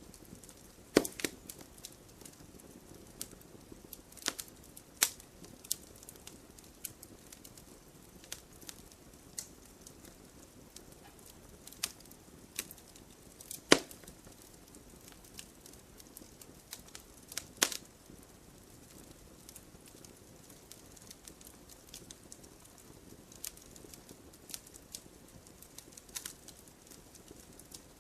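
Fireplace fire crackling: irregular sharp pops and snaps over a soft low hiss, with a few louder pops about a second in, midway through and a little after.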